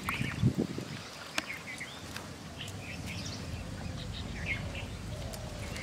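Small birds chirping now and then over a steady low rumble of outdoor ambience, with a single sharp click about a second and a half in.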